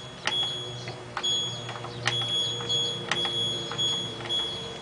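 Control panel of an LG F1222TD washing machine beeping as its buttons are pressed to change the settings: a run of short high-pitched beeps, about one a second, each with a button click.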